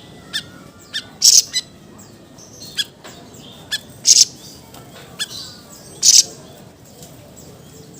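Siri-siri songbird calling in short, sharp, high bursts: three loud calls about a second, four and six seconds in, with shorter chirps between them.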